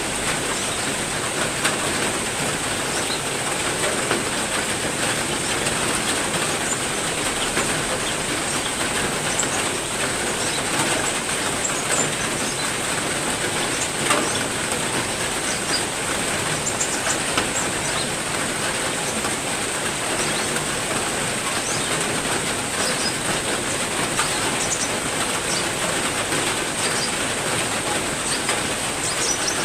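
Heavy rain falling steadily, a dense patter of drops, with birds in an aviary giving short chirps here and there. A steady high whine runs underneath.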